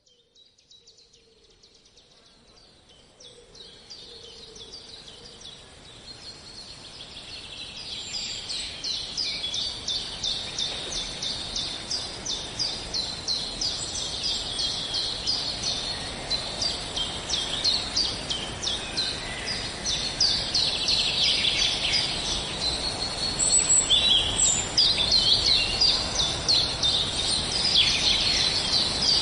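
Morning birdsong chorus: many birds chirping and trilling rapidly over a steady outdoor background hiss, fading in from near silence over the first twenty seconds or so.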